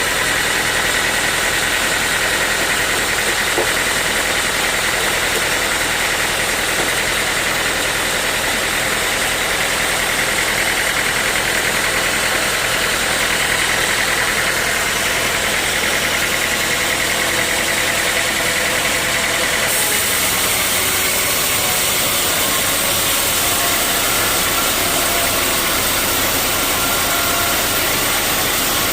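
Sawmill machinery running steadily: a constant mechanical noise with a steady high whine. About two-thirds of the way in, the high part of the sound changes abruptly.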